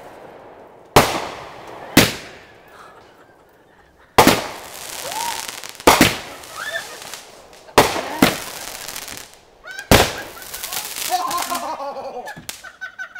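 Aerial fireworks bursting: about seven sharp bangs a second or two apart, several followed by a drawn-out crackling hiss. Voices call out between the last bangs near the end.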